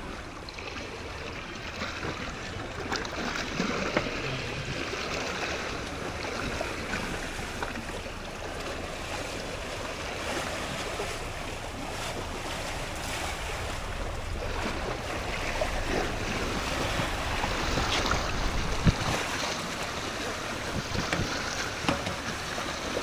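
Sea waves washing and wind buffeting the microphone, with scattered knocks, the sharpest about nineteen seconds in.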